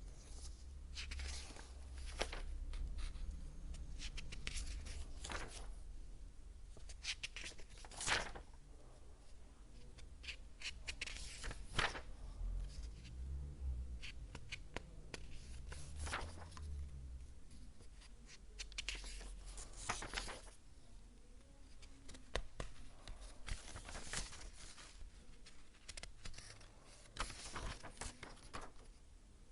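Paper pages being turned one after another: irregular rustling swishes, each ending in a sharp flick, every second or two.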